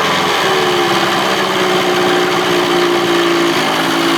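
2000 Johnson 25 hp two-stroke outboard running steadily. Its pitch eases down slightly in the first second and then holds even. The low-speed mixture screw has just been opened to about two and a half turns, and the owner finds it running much better than when it was lean and sneezing.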